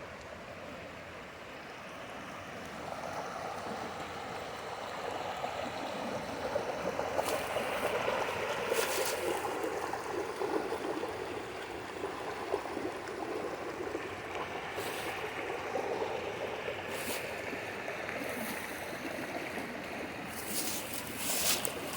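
Stream water running steadily, growing louder a few seconds in, with a few light clicks over it.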